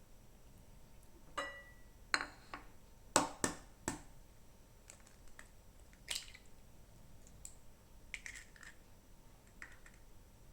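Scattered light clinks and knocks of kitchen utensils and bowls being handled, the first with a short ring and a quick cluster of sharper knocks a little after it.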